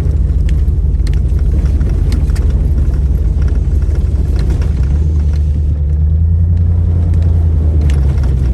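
Off-road vehicle driving slowly over a dirt trail: a steady low engine and road rumble with scattered small knocks and rattles. The engine note rises and grows louder from about five seconds in, then eases back near the end.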